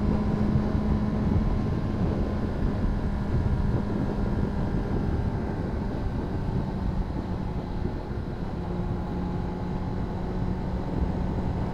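Honda CBR600RR inline-four engine running at a steady cruise, with wind rushing over the helmet microphone.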